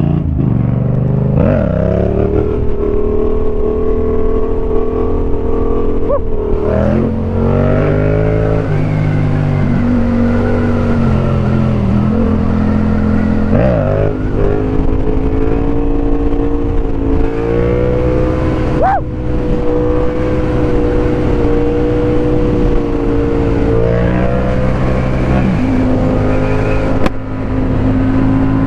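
Motorcycle engine running under way on the road, its pitch holding steady for stretches and then stepping up and down as the throttle opens and closes and gears change, with several quick revs along the way.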